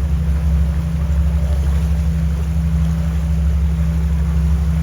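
Boat engine running steadily on board, a constant low drone with no change in speed.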